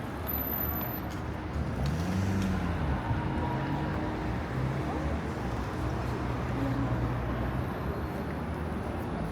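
Street traffic: a motor vehicle's engine hums low from about two seconds in to near the end, its pitch rising and falling once early in, over steady street noise.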